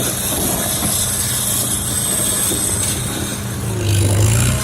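1951 Farmall H tractor's four-cylinder engine running steadily as the tractor drives along, its note growing louder for a moment near the end.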